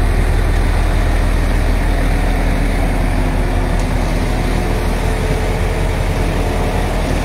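Heavy truck engine running steadily at idle, a constant low hum.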